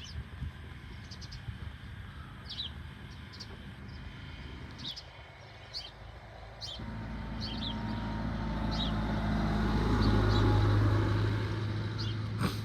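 Short bird chirps recur every second or so. From about seven seconds in, a motor vehicle's low engine hum rises, is loudest just before the end, then fades as the vehicle passes.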